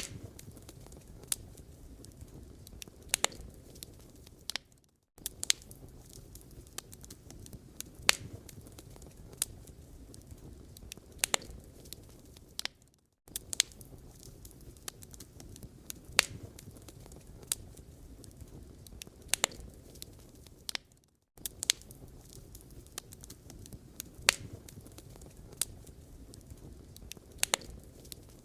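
Wood fire crackling in a fireplace: a steady low rumble of burning with irregular sharp pops and snaps. The sound drops out briefly about every eight seconds.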